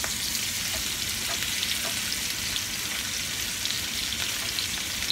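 Steady frying sizzle as halved Brussels sprouts are scraped off a cutting board into a hot frying pan with a wooden spatula, with a few light scraping ticks. Skin-on salmon fillets are frying in a second pan at the same time.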